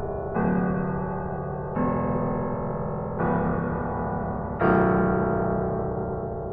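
Electric piano music: slow held chords, a new one struck about every second and a half, the last, a little past halfway, left to ring and fade.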